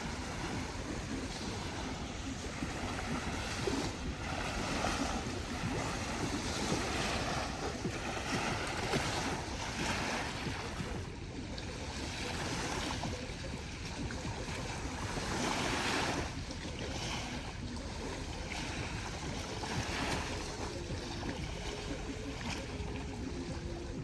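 Small waves washing onto a river beach in uneven swells, with wind buffeting the microphone.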